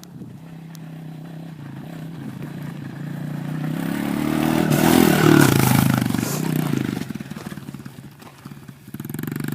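A 110cc dirt bike's single-cylinder engine running as the bike is ridden over rocky ground. It gets louder to a peak about five seconds in, then drops back.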